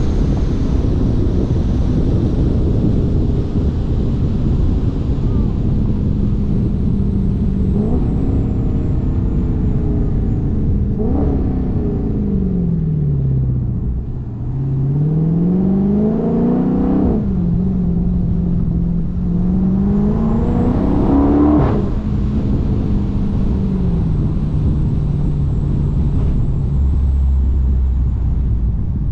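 Dodge Charger SRT 392's 6.4-litre HEMI V8 under way: the engine note falls as the car slows about halfway through, then climbs as it pulls away, dropping in pitch twice at upshifts before settling to a steady cruise.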